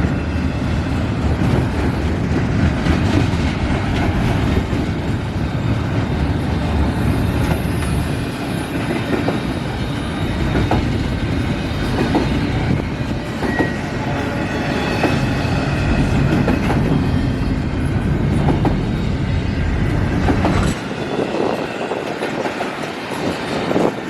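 Cars of a CN intermodal freight train rolling past at speed, a steady heavy rumble with a thin high wheel squeal about seven seconds in. The deep rumble drops away sharply near the end.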